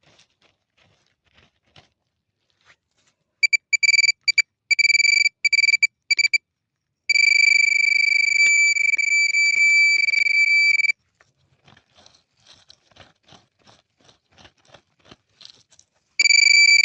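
Metal detector sounding its high, steady target tone over a buried metal signal: a run of short beeps about three seconds in, then one held tone lasting about four seconds, then a short tone again near the end. Faint crunching and ticking of the ground in between.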